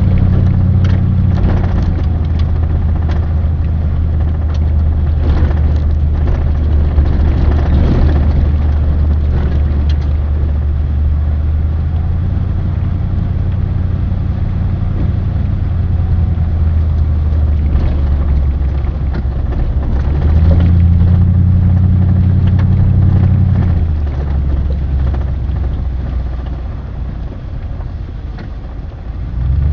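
A motor vehicle's engine running steadily under road noise, its hum shifting a few times.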